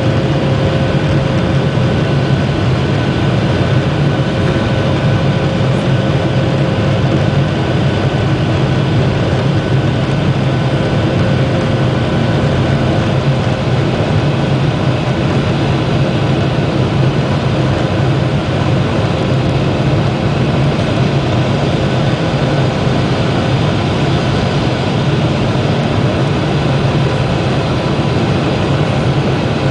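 Boeing 737-800's CFM56 jet engines and airflow heard steadily inside the passenger cabin during the climb after take-off: an even rushing drone with faint steady engine tones above it.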